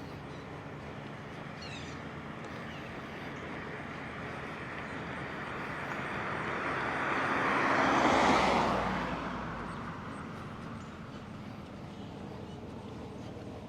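A car driving past, its tyre and engine noise swelling to a peak about eight seconds in and then fading away.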